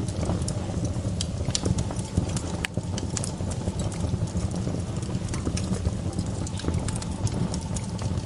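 Campfire crackling: irregular sharp pops and snaps over a steady low rumble of the burning wood, with one sharper snap almost three seconds in.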